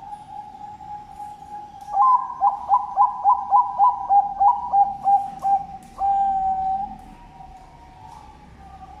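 Zebra dove (Bangkok-type perkutut) singing: a faint steady coo, then about two seconds in a quick run of a dozen short clipped notes, about four a second, closing on one longer held note.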